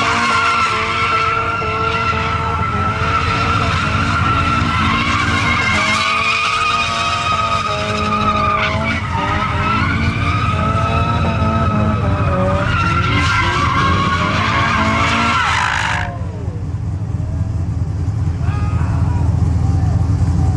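Tires squealing in a long burnout over a loud engine, the squeal wavering in pitch; it cuts off suddenly about sixteen seconds in, leaving the engine running.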